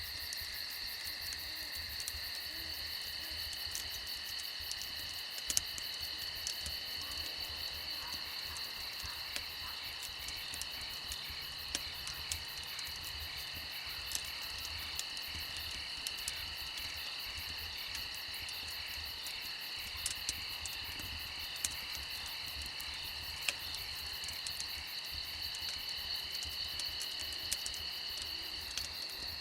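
Steady chorus of crickets trilling at several pitches at once, with scattered sharp crackles and pops from a wood fire; one of the trills stops near the end.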